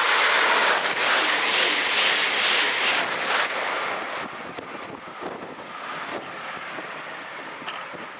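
Double-deck electric train passing at speed right alongside: a loud rush of air and wheel-on-rail noise that holds for about three and a half seconds, then fades as the train draws away.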